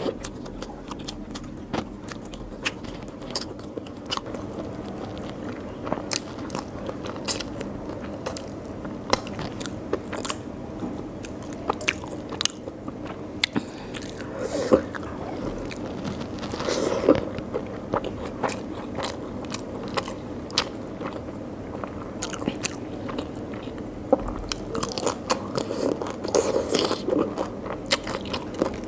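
A person chewing and crunching food close to the microphone, with many sharp crunches and wet mouth clicks, coming thickest near the middle and towards the end.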